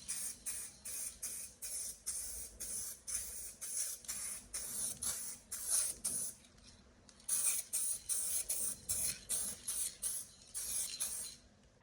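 Short bursts of UV primer being sprayed onto a car panel, about three a second, with a brief pause a little past the middle.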